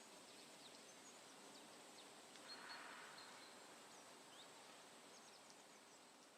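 Near silence: a faint steady hiss with a few faint, short, high chirps.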